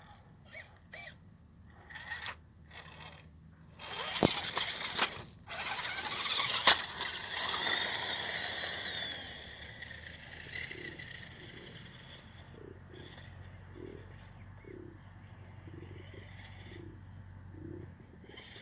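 Radio-controlled rock crawler working over rocks: scraping and clattering with two sharp knocks a few seconds in, then a low steady hum.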